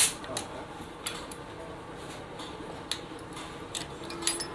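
Several light clicks and taps at irregular intervals, with no engine running.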